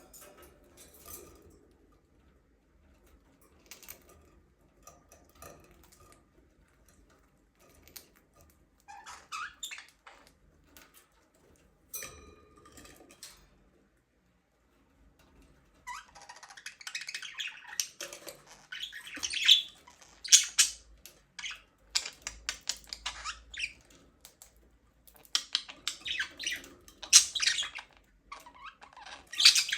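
Budgerigars chirping and squawking: a few faint scattered chirps at first, then from about halfway a dense, louder run of rapid high chirps and squawks.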